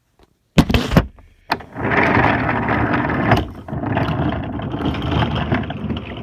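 Toy train and its cars rolling along wooden railway track: a few sharp knocks about half a second to one and a half seconds in, then a steady rolling rumble and clatter.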